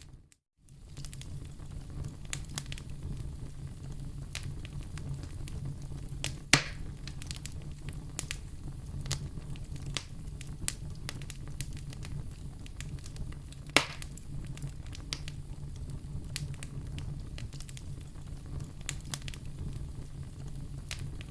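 Wood fire crackling over a steady low rumble, with many small crackles and two louder pops about seven and fourteen seconds in. The sound cuts out for about half a second just after the start.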